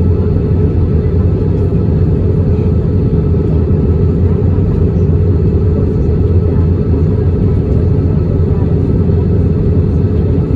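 Steady rumble of an Airbus A320 in flight, the engine and airflow noise heard inside the passenger cabin.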